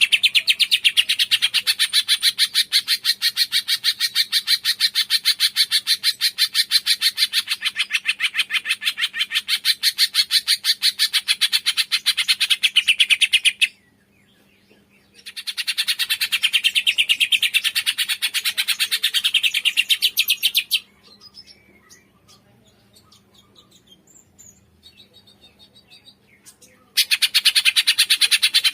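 Cungkok songbird chattering in long runs of rapid, evenly repeated high notes, about seven a second. The song breaks off abruptly about halfway through and starts again after a short pause. It stops again for several seconds, leaving only faint calls, and resumes near the end.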